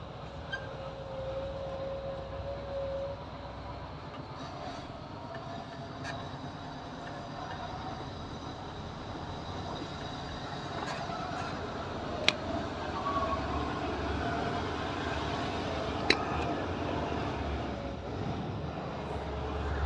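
Scania 590 XT truck's V8 diesel running with a steady low rumble, with two sharp clicks partway through.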